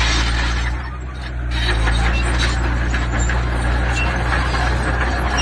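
Heavy diesel construction machinery running steadily at work. It dips briefly about a second in, then picks up again, with scattered knocks and clatter over the engine.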